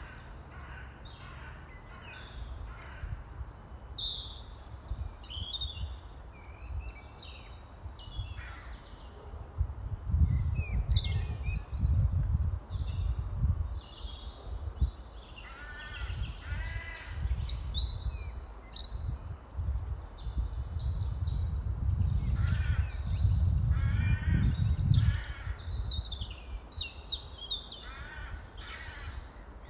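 Many birds chirping and calling, some with harsher, stacked calls, over a low rumble that swells twice.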